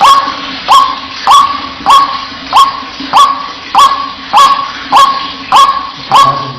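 White-breasted waterhen (ruak-ruak) giving its 'wak-wak' call: short, loud notes that hook upward, repeated evenly about every 0.6 s, eleven or so in a row. It is a recorded lure call used to attract the birds.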